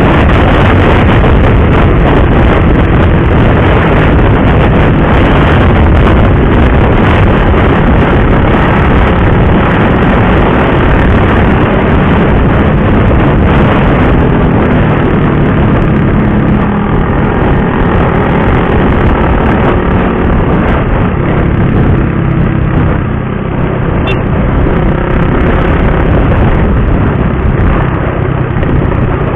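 Motorcycle riding at speed: engine running under a heavy rush of wind on the microphone, easing off somewhat about halfway through.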